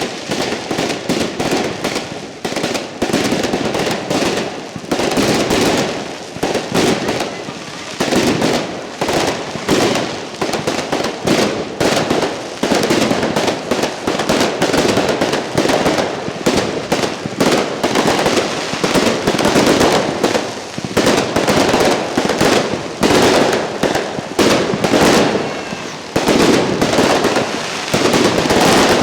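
Fireworks display going off continuously: rapid, overlapping bangs and crackling bursts with no let-up.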